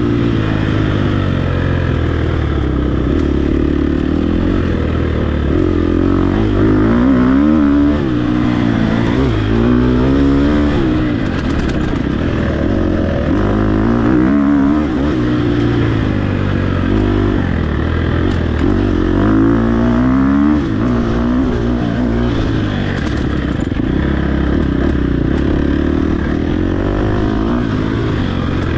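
Dirt bike engine at race pace, its pitch repeatedly climbing under throttle and dropping back as the rider shifts and backs off over off-road terrain.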